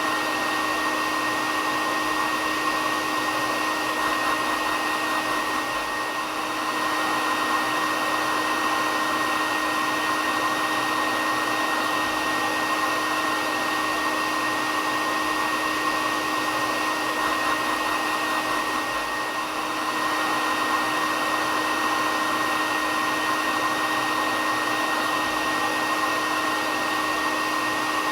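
Hair dryer running steadily: a continuous rushing blower noise with a steady high whine over it, played as white noise for a baby's sleep.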